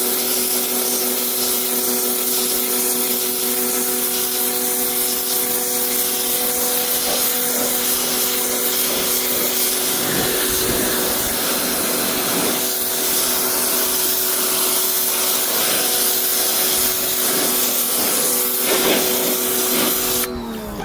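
Pressure washer running with a steady motor hum under the hiss of the water jet on car carpet and seat fabric. Near the end it cuts off, the hum falling in pitch as the motor winds down.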